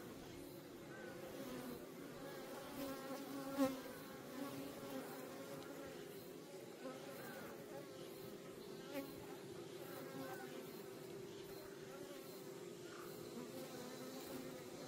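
Steady hum of many native Korean honeybees (Asian honeybees) around their wild nest. Individual bees now and then buzz close past, the loudest about three and a half seconds in.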